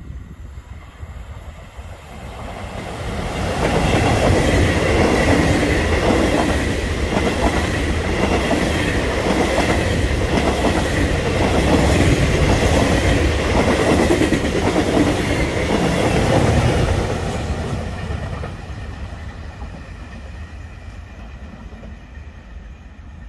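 Regional passenger train, an electric locomotive with a rake of coaches, running past the platform. It builds up, then gives a rhythmic clickety-clack of wheels about once a second over a steady high whine, and fades away near the end as it recedes.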